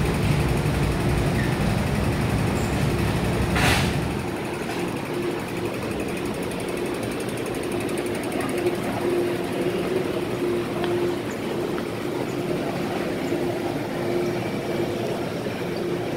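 MTR M-Train electric train heard from inside the car: a heavy low rumble that drops away about four seconds in, just after a short burst of hiss, leaving a steady hum.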